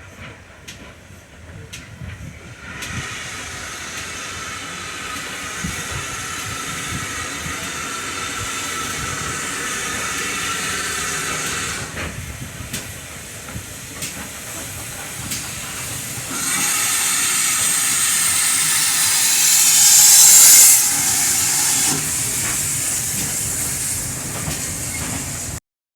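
GWR 57xx pannier tank steam locomotive letting off a loud, steady hiss of steam, with irregular low knocks underneath. The hiss starts about three seconds in, eases off around twelve seconds, comes back louder a few seconds later, swells to its loudest about twenty seconds in, then drops back and cuts off suddenly near the end.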